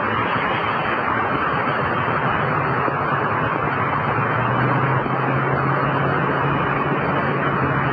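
Steady road vehicle noise, joined about two and a half seconds in by a low, steady engine-like hum that grows stronger halfway through.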